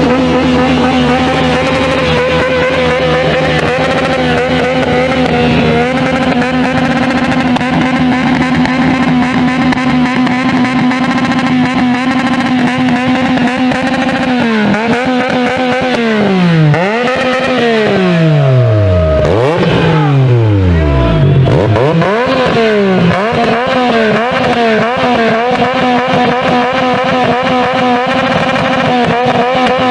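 A petrol engine held on its rev limiter, its note steady at the top of the rev range with a rapid flutter as the limiter cuts in and out. About halfway through, the revs drop and climb again several times before settling back on the limiter.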